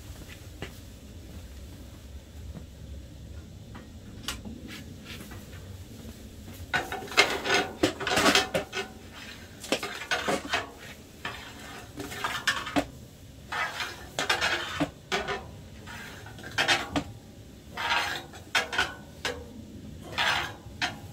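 Metal clattering and scraping: hard objects being handled and knocked together in short, irregular bursts, starting in earnest about seven seconds in after a few lighter clicks.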